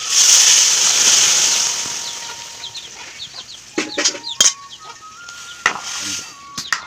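Chopped ash gourd tipped into a hot pan of frying chicken, bursting into a loud sizzle that fades over about two seconds. This is followed by a few sharp knocks of a utensil against the pan as it is stirred.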